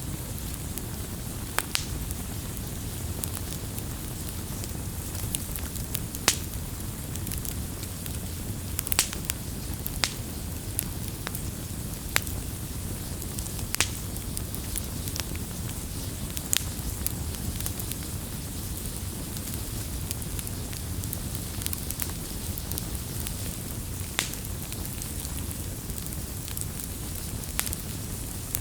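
Wood campfire crackling: a steady low rumble and hiss of burning, with sharp pops and snaps scattered irregularly, a few of them louder.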